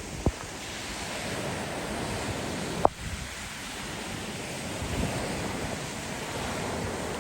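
Strong typhoon wind and surf: a steady rush of noise that swells a little, with two sharp knocks, one just after the start and a louder one about three seconds in.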